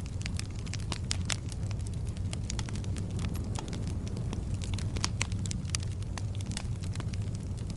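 Fire in a fireplace crackling: irregular sharp snaps and pops, several a second, over a steady low rumble of the flames.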